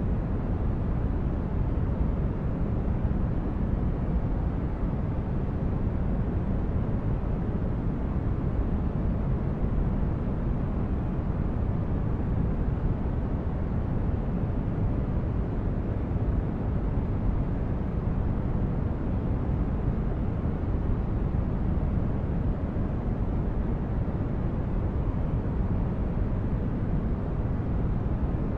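Steady, deep white-noise sleep track: an even hiss weighted toward the low end, with no change or events.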